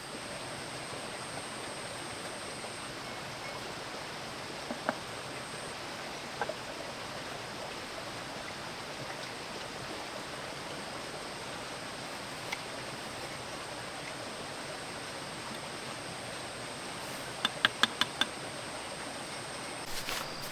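Steady rush of a running stream, with a few sharp knocks here and there and a quick run of about five taps near the end.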